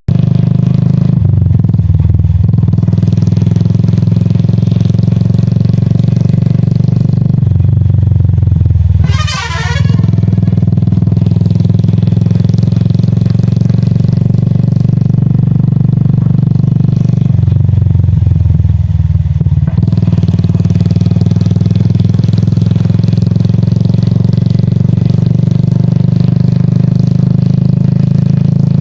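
Royal Enfield Classic 350's single-cylinder engine running steadily under the rider, its note shifting about three times as the throttle changes. A brief high trilling sound cuts in about nine seconds in.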